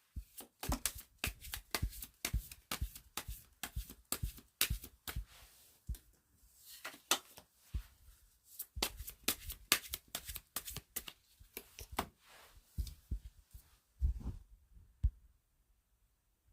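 A rapid, irregular series of sharp clicks and taps, several a second, with short lulls and a heavier knock near the end.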